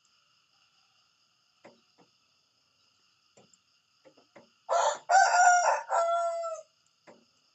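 Rooster crowing once: a cock-a-doodle-doo in three parts lasting about two seconds, a little past the middle.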